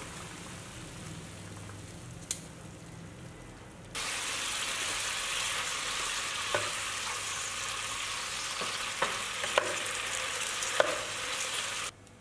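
Broccoli simmering in a pan of water, a quiet low bubbling; about four seconds in it changes abruptly to broccoli stir-frying in hot oil, a steady loud sizzle with a few sharp clicks as it is tossed in the pan.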